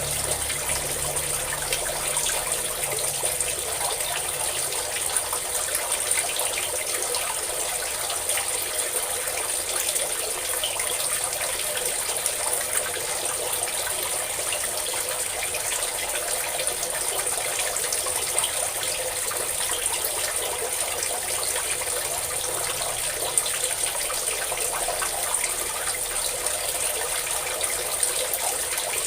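Water pouring and splashing steadily, a constant rushing with fine splashes.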